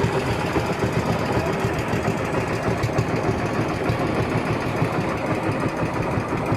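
Honda 16 hp pumpboat engine running steadily with a fast, even beat.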